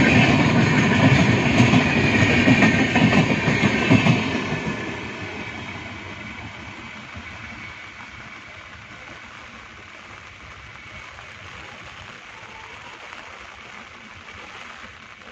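Train passing close by with clattering wheels, its noise dying away about four seconds in and leaving the steady hiss of heavy rain.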